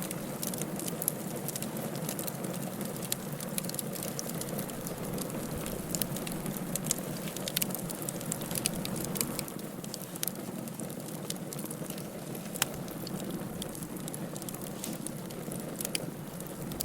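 Firewood burning in a fireplace: a steady hiss and rush of flame with frequent small crackles and a few sharper pops, one standing out about twelve seconds in.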